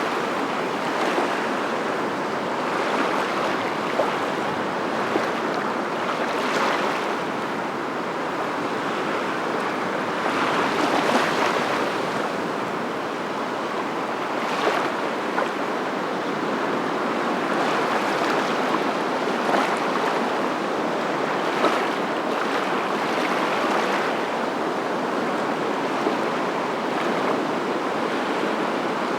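Surf: a steady rush of breaking waves that swells every few seconds.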